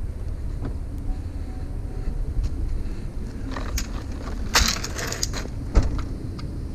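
Metal scrap parts being handled while a discarded blind is taken apart: scattered small clicks, a short rattling clatter about four and a half seconds in, and a sharp knock near six seconds, over a steady low rumble.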